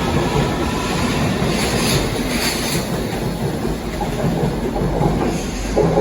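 Passenger train running slowly through the station: a steady rumble with wheels clattering over the rail joints, and a faint wheel squeal that dies away in the first second.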